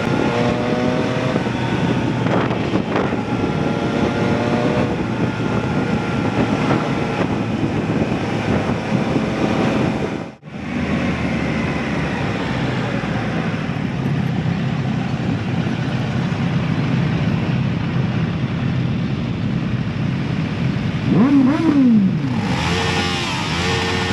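Motorcycle engine running under way with wind and road noise, its pitch climbing in steps as it shifts up through the gears early on. It cuts out briefly about ten seconds in, and near the end the engine revs up hard and drops back.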